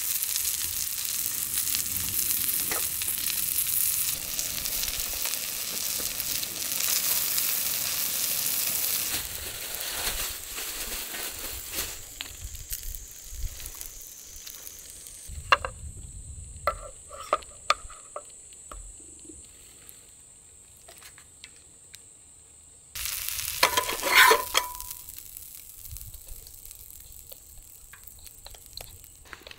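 Food sizzling as it fries in a pan, loudest for the first ten seconds or so and then dying away. After that come scattered light clicks and knocks, with a short louder burst of noise about two-thirds of the way through.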